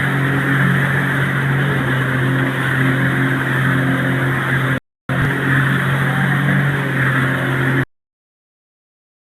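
Engine running steadily at speed, a loud low drone with rushing noise over it. It cuts out abruptly for a moment about five seconds in, then stops dead about eight seconds in, leaving silence.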